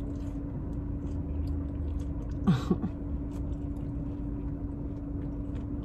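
A person chewing a mouthful of leafy green salad, with small crunching ticks over a steady low hum. A brief falling squeak comes about two and a half seconds in.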